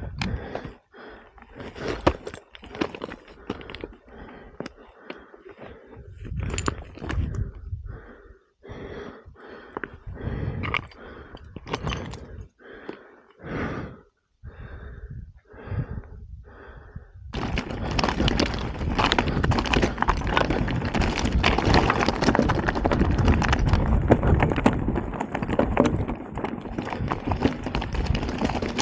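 Short separate crunches, about one a second, then a sudden change about 17 seconds in to the continuous rumble and clatter of a mountain bike rolling fast over rocky trail, with the tyres on loose stones and the bike rattling.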